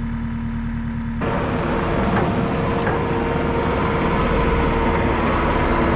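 Vehicle engine running steadily, turning louder and rougher about a second in.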